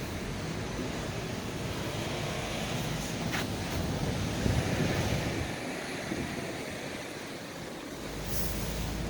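Wind buffeting the microphone, with a low rumble underneath that turns steady about eight seconds in.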